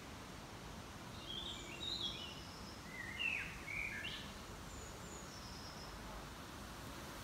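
Songbirds chirping outdoors: a cluster of short chirps and quick whistled notes, some falling and some rising in pitch, bunched around the middle, with a few fainter high notes after, over a steady background hiss.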